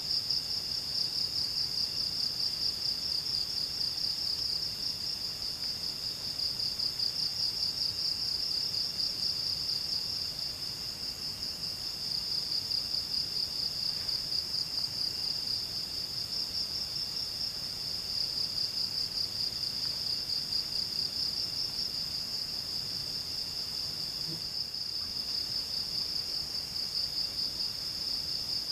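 Continuous, high-pitched chorus of insects trilling in a fast, even pulse. Underneath it, a fainter insect calls in repeated phrases of a second or two.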